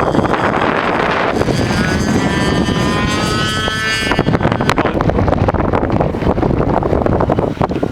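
Radio-controlled model amphibian plane's motor and propeller whining as it flies, rising in pitch between about one and four seconds in, then fading. Heavy wind buffeting on the microphone.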